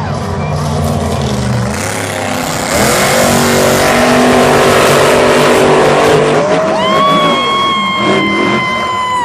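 Monster trucks' supercharged V8 engines revving hard and loud as a side-by-side race gets under way, with a shrill held note near the end.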